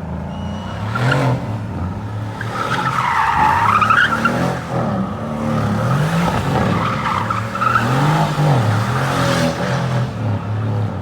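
A drift car's engine revving up and down repeatedly while its tyres squeal and skid, loudest about four seconds in.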